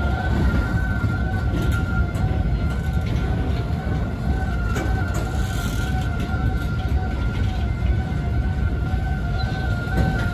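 Freight train of loaded container wagons rolling past, its wheels making a steady low rumble. A constant high-pitched whine holds at one pitch over the rumble throughout.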